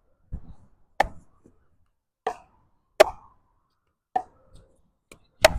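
Pickleball rally: five sharp pops of paddle striking ball and ball bouncing on the court, spaced about one to one and a half seconds apart.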